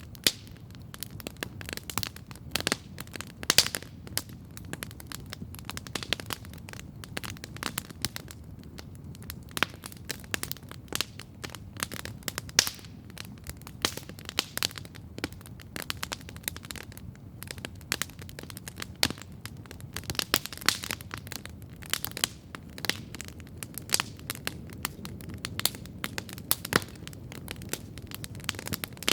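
Wood campfire crackling steadily: a constant run of sharp pops and snaps, some louder, over the low, even rush of the flames.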